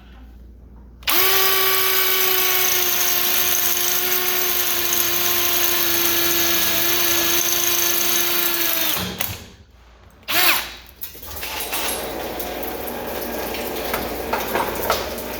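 Power drill with a pilot bit drilling into a steel sprinkler pipe: a steady motor whine for about eight seconds that then stops, and a brief second burst of the drill a moment later. Trapped water then hisses out of the fresh pilot hole into a bucket.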